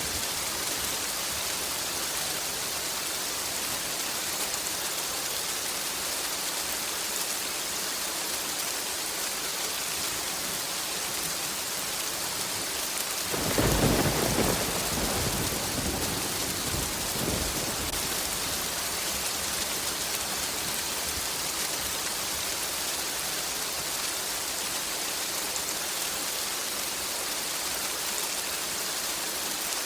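Steady heavy rain, with one thunderclap about halfway through that rumbles for a few seconds and fades out.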